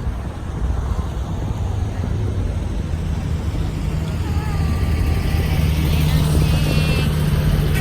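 Low engine rumble of a vintage car driving past, growing louder in the second half, with voices in the background.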